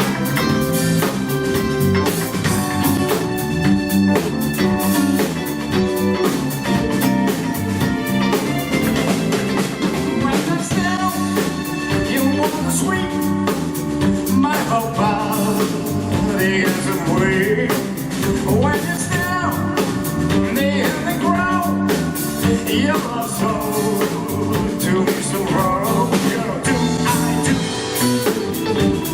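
A live band playing a pop-rock cover: drum kit and guitar keep a steady groove, and a lead melody line bends in pitch through the second half.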